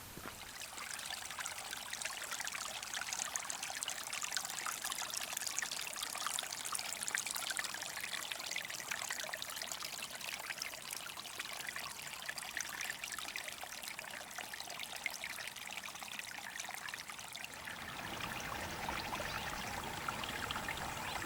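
River water trickling and lapping at the bank: a steady, fine splashing hiss that grows a little fuller near the end.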